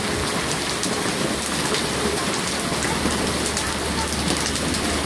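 Heavy rain pouring steadily onto a flooded street and pavement, with a dense spatter of close drops.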